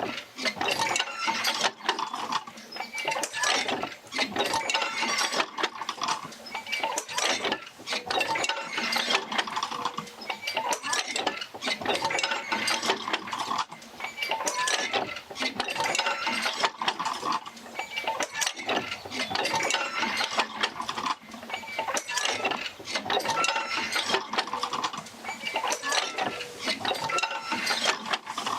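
Oil-field field wheel rocking back and forth as it drives the jerker lines out to the pumps: a steady run of clicks, clanks and short squeaks of working metal parts.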